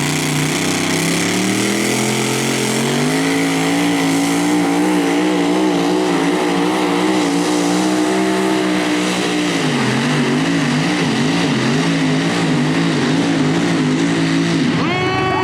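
Mini rod pulling tractor's engine under full throttle. Its pitch climbs over the first few seconds, then holds with a wavering pitch, then drops about ten seconds in, after which it runs at lower, uneven revs.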